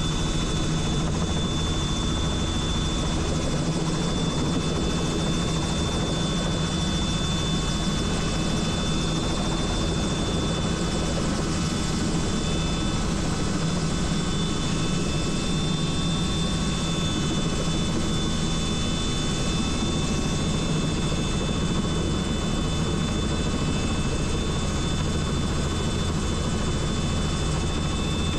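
Helicopter in flight, heard from aboard: steady rotor and engine noise with a deep throb and a constant high whine.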